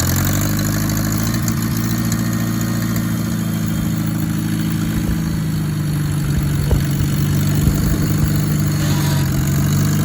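Old tractor engine just started and running steadily at idle, with a couple of short knocks about seven and eight seconds in.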